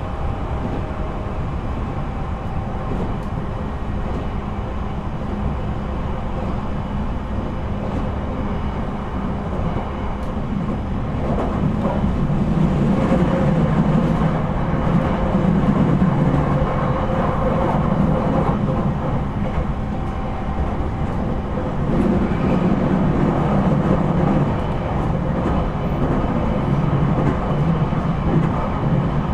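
Running noise heard inside an E721-series electric multiple unit's motor car: a steady rumble of wheels on rail and train noise, growing louder about twelve seconds in.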